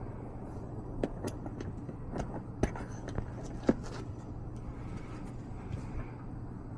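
Steady low hum of a running HVAC system's blower, with a few scattered light knocks and taps from hands-on work.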